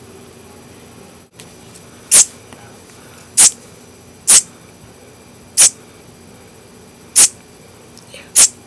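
Baby bird giving six loud, short, high-pitched peeps, irregularly spaced about a second apart, starting about two seconds in.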